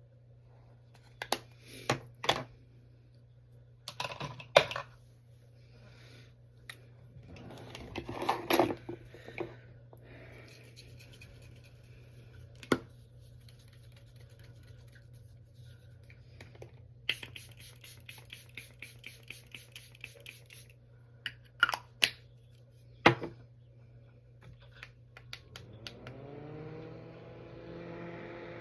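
Makeup cases and tools being handled: scattered sharp clicks and taps, as of compacts and lids snapping, with a few seconds of rapid scratchy strokes in the middle. Near the end a steady hum starts up, rising in pitch and then levelling off.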